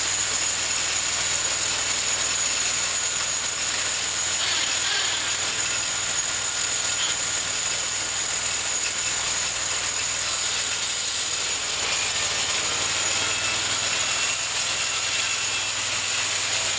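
Homemade bandsaw mill running steadily, a continuous mechanical noise with a steady high-pitched whine over a low hum.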